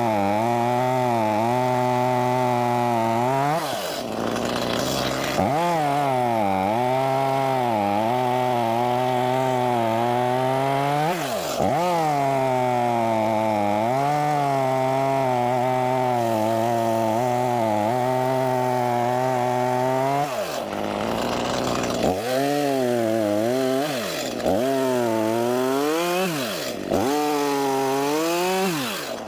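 Stihl chainsaw cutting wood at high revs, its engine pitch sagging and wavering under load. It drops off the throttle briefly several times and picks up again.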